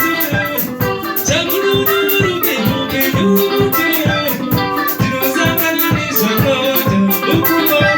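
Live band music at a steady beat: plucked electric guitar lines over drums, with a shaker or hi-hat ticking several times a second.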